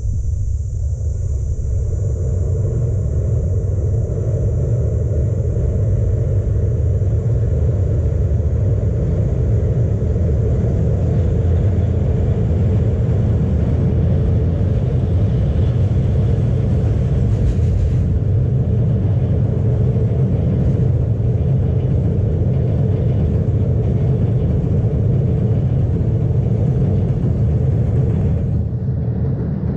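Passenger train crossing a steel truss railway bridge, a steady heavy rumble that eases slightly near the end. A thin high hiss is heard over it until about halfway.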